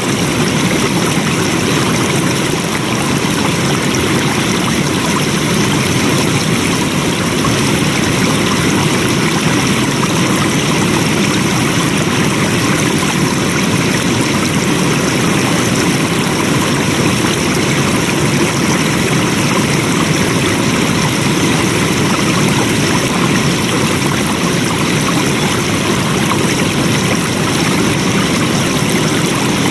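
Flowing water rushing steadily, like a stream or small cascade, an even hiss across the whole range with no change in level.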